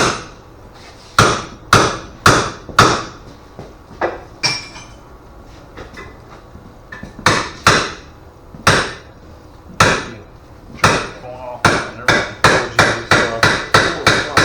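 Hand hammer striking sheet metal to stretch it: separate blows up to about a second apart, each with a short metallic ring, turning into a quicker, even run of about three blows a second near the end.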